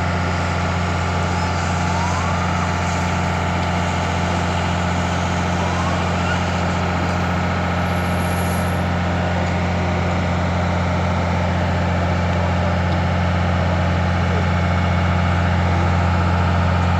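A vehicle engine running at a steady pace, a constant low drone that does not change in pitch or loudness.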